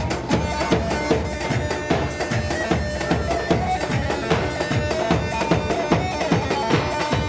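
Live folk music for a halay dance: a shrill reed wind instrument plays a held, wavering melody over steady drum beats.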